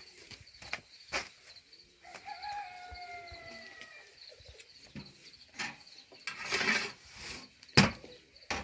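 A rooster crowing once, a long call of about two seconds that slowly falls in pitch. Scattered knocks and clatter run around it, with a rustle and then a sharp knock near the end.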